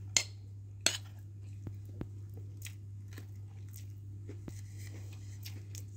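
Close-up chewing and mouth smacks from someone eating a mouthful of chicken biryani, with a few sharp wet clicks, the loudest about a second in. A steady low hum runs underneath.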